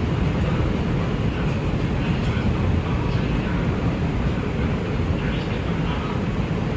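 Steady low rumble and hum inside an R142 subway car, as the train stands at or draws into a station.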